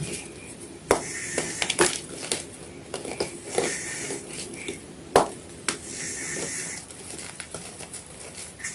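White gym chalk being crunched close to the microphone: sharp cracks about a second in and again around five seconds in, between stretches of gritty crunching.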